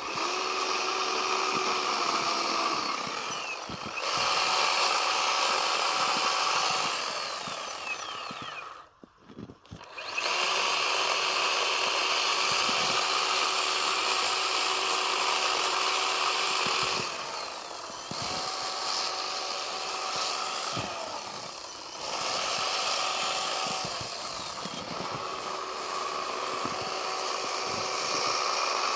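Chainsaw running and cutting into a block of packed snow, its engine pitch rising and falling with the throttle. The saw falls away almost to silence for about a second around nine seconds in, then runs again.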